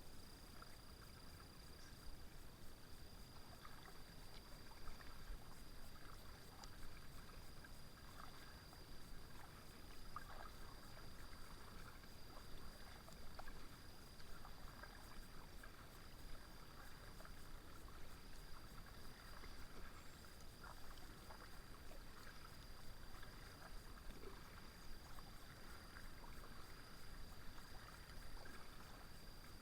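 Faint splashing and dripping of a kayak paddle dipping into river water, stroke after stroke.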